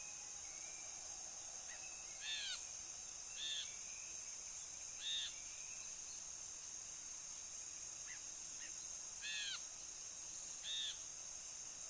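Brinji bulbul giving five short, arched calls a few seconds apart, over a steady high insect drone.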